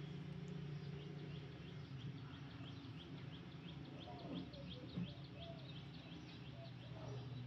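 A bird chirping faintly in a quick, even run of short high chirps for a few seconds, over a low steady hum.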